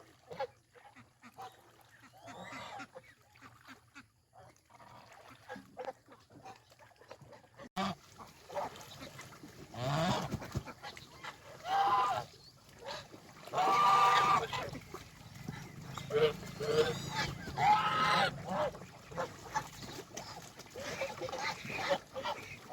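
Domestic geese honking: a few faint calls at first, then a run of loud, repeated honks from about eight seconds in.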